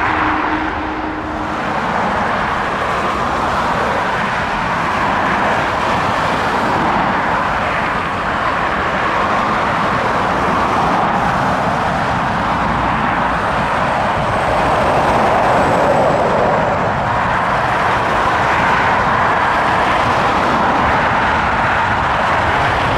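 Boeing 757 jet engines: a loud, steady rushing roar that swells slightly after the middle, with a faint high whine.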